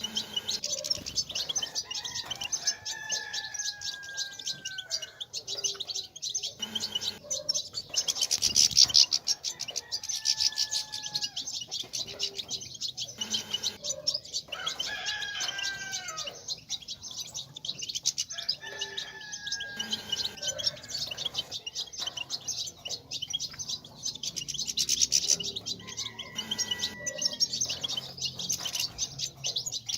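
European goldfinches twittering in a dense, continuous stream of rapid high chirps, the chatter keepers play to stimulate males to sing. A rooster crows in the background about five times, each crow a drawn-out call of about two seconds.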